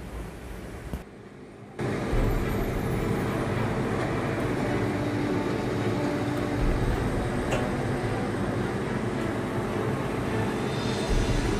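Large vehicle engine running steadily with a low hum, coming in abruptly about two seconds in.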